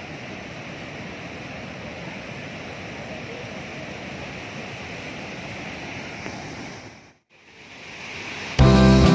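Steady rushing of the Chitrakoot waterfall, with some wind on the microphone. The sound drops out briefly about seven seconds in and then returns. Guitar music starts near the end.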